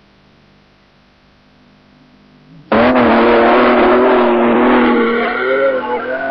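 A 4x4's engine at high revs, starting suddenly and loudly about three seconds in and holding a steady pitch, after a faint hum.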